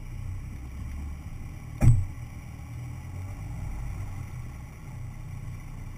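A 4x4 vehicle's engine running with a steady low hum, and one sharp, loud thump about two seconds in.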